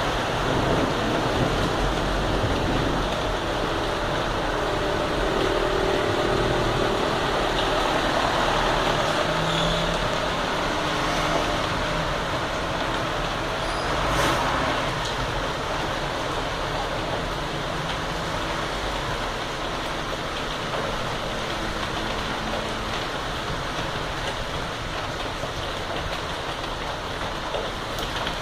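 Heavy rain falling steadily, mixed with traffic running along a wet avenue; a vehicle engine hums through the first half.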